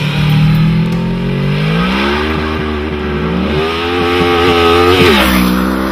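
2009 Star VMax motorcycle's nearly 1700cc V4 engine pulling hard under acceleration. It holds a steady note, then climbs in pitch twice with a brief dip between, as if shifting up a gear, and drops off about five seconds in.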